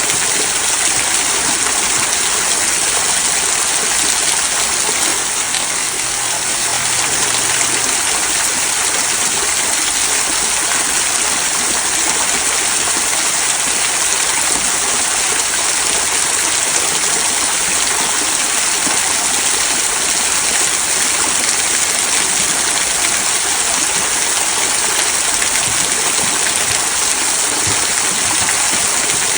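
Small waterfall trickling over rocks into a stream: a steady, even rush and splash of falling water.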